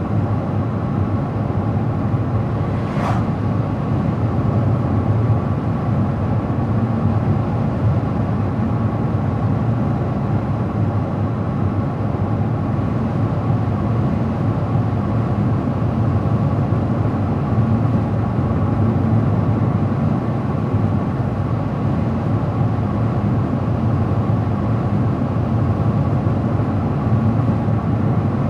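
Car driving at steady speed on the road, a constant rumble of tyre and engine noise. A single brief tick about three seconds in.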